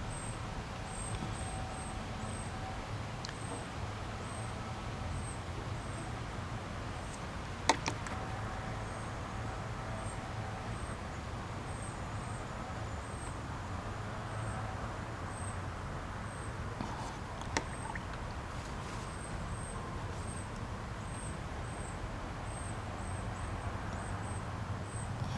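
Backyard outdoor ambience: a steady low hum like distant motor traffic, with a short high chirp repeating about once or twice a second throughout. A sharp click stands out about eight seconds in, and a smaller one later.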